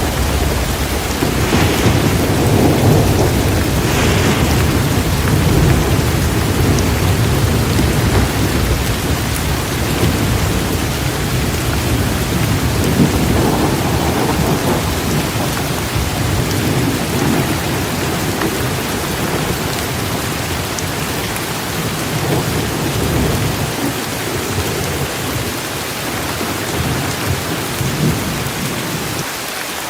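Heavy, torrential rain pouring down with rolling thunder rumbling low underneath. The rumble eases off in the last few seconds.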